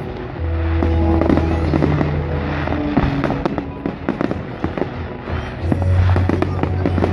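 Fireworks display: many sharp bangs and crackling bursts of exploding shells over music with long held bass notes.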